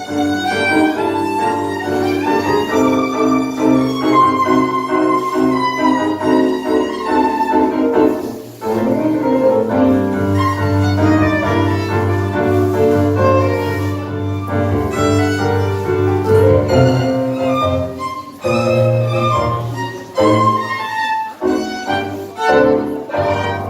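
Live tango music from a small ensemble, with a violin carrying the melody over piano and a low bowed bass line. Near the end the playing breaks into short, clipped chords.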